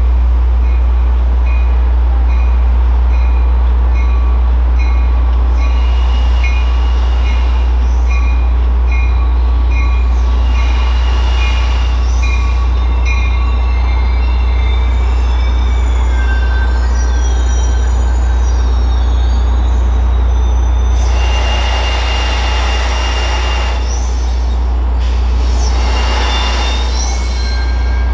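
Caltrain passenger train rumbling deeply and steadily at the station. A bell rings about twice a second for the first half. In the second half come metallic wheel squeals and two bursts of hiss.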